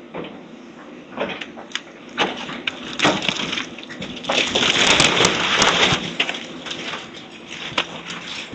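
House demolition: wood and debris cracking, snapping and crashing, with a long dense crunch about four to six seconds in, over a low steady machine hum.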